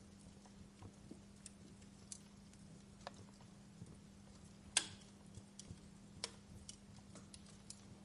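Fireplace wood fire crackling: sparse, irregular pops and snaps, one louder snap near the middle, over a faint steady hum.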